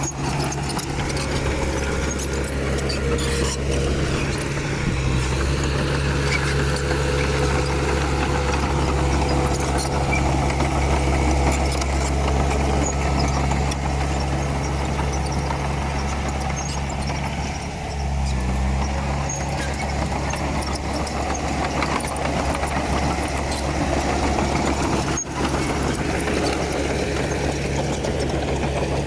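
Bulldozer's diesel engine running steadily with a low, even drone, briefly dipping and shifting pitch near the middle.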